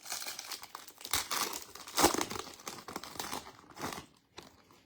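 Foil wrapper of a football trading-card pack being torn open and crinkled by hand, a dense crackling for about four seconds with louder tears around one and two seconds in.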